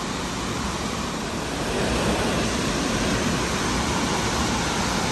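Steady roar of rushing water from Burney Falls, a little louder about two seconds in.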